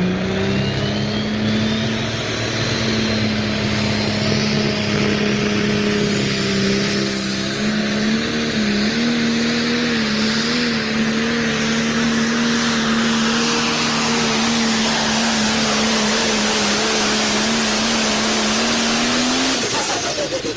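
Pulling tractor's engine running at full power on a run down the pulling track, its pitch held high and steady with a brief wavering about halfway through. Near the end the engine is shut down and its pitch falls away.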